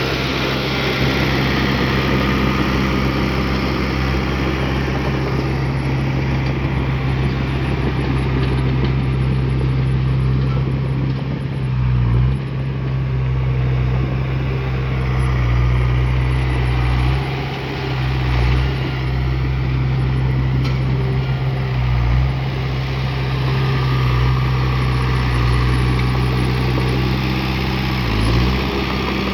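Heavy earthmoving equipment's diesel engine running steadily, its note dipping briefly several times.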